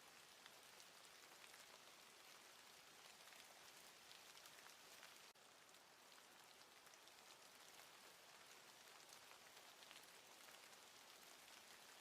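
Faint, steady patter of falling precipitation, many fine ticks over an even hiss, like rain or sleet hitting a surface. It drops out for a moment about five seconds in.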